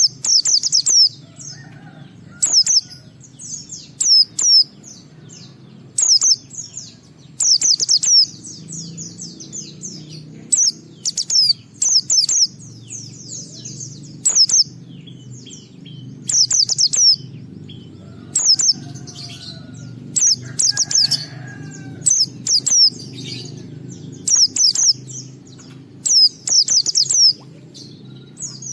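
White-eye (pleci) singing its ngalas song: short bursts of rapid, high-pitched twittering repeated every second or two, over a steady low hum.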